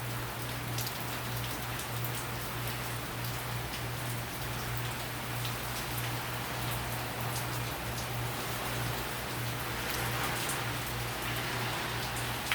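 Rain from a hurricane falling steadily, with many small drop ticks in the wash of noise, swelling a little near the end, over a steady low hum.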